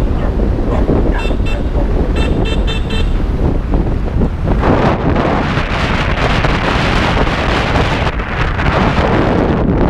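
Wind buffeting the microphone over engine and traffic rumble during a motorbike ride. A run of short horn beeps comes from about one to three seconds in, and the wind hiss grows heavier from about halfway.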